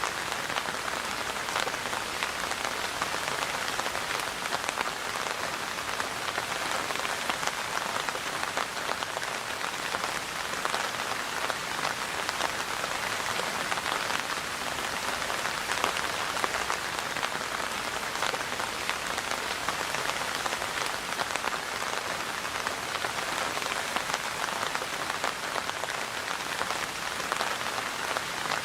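Steady rain falling on a hard surface, a dense even patter of many small drop impacts.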